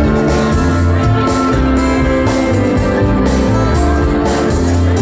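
A live band playing loud amplified music, with guitar and bass notes over a steady drum beat.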